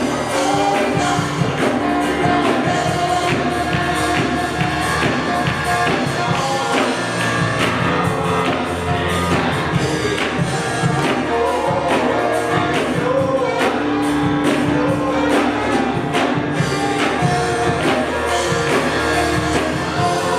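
Live worship band music with singing, a steady drum beat and tambourine, in a large hall.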